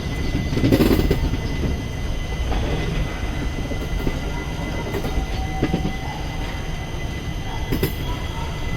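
Passenger train running on the rails: a steady rumble of the coach, with a few sharp clacks of the wheels over the track.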